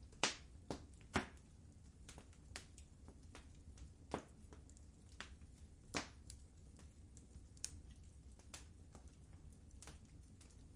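Wood fire in a fireplace crackling: irregular sharp pops and snaps, the loudest early and again around four and six seconds in, over a low steady rumble of the burning logs.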